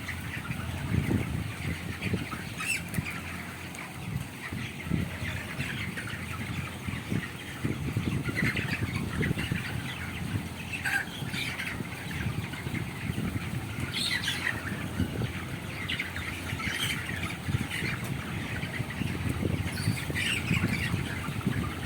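A large flock of 25-day-old broiler chickens in a poultry house, many birds squawking and calling at once over a steady low rumble.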